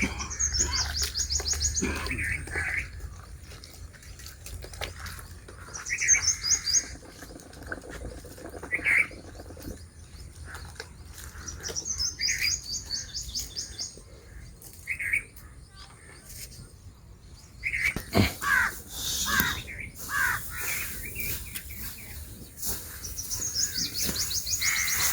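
Birds chirping and calling, with a fast trilling phrase repeated every five or six seconds. About three-quarters of the way through come a sharp knock and some clatter.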